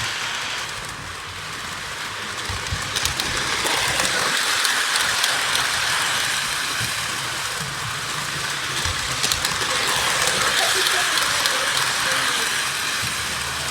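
Toy Polar Express electric train running around its track, giving a steady hissing whirr of motor and wheels on the rails that gently rises and falls.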